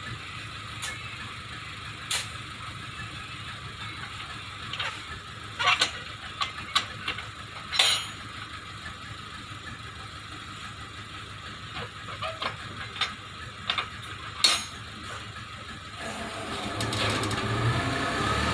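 An engine runs steadily, with scattered sharp knocks and clanks. In the last couple of seconds an engine grows louder and fuller.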